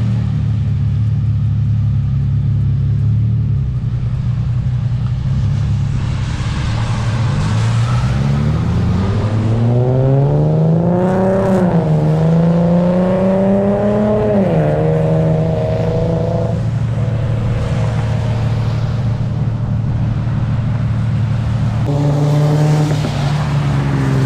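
Infiniti G37's 3.7-litre V6 running through test pipes in place of its catalytic converters, driven under load. It hums steadily, then the engine note climbs, dips briefly, climbs again, drops sharply as a gear change, holds steady at cruise, and rises once more near the end.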